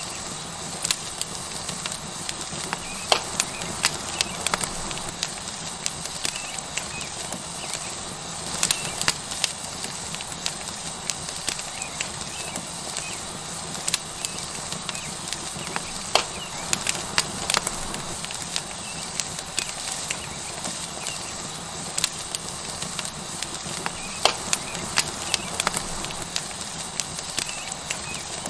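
Tomahawk steak sizzling on a hot rock over a wood fire: a steady hiss with frequent sharp crackles and pops.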